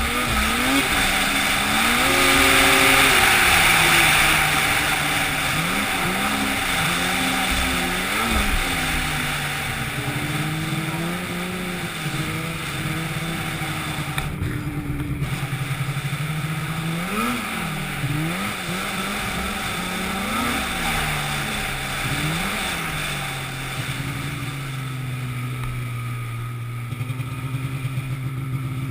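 An engine running with its speed repeatedly dipping and then briefly rising again, over a steady rushing noise.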